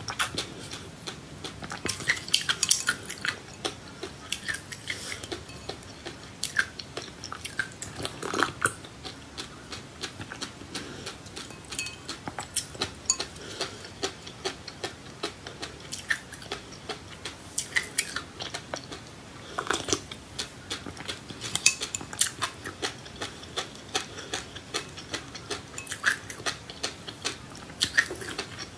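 Close-up eating sounds: many short, irregular crisp clicks of seeds being chewed, mixed with a utensil clinking against a dish.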